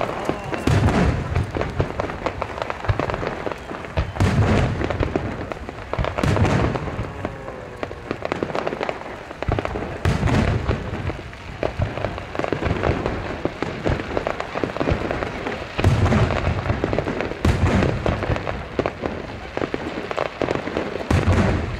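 Large fireworks shells bursting one after another in deep, echoing booms every second or few, over a steady hiss of heavy rain.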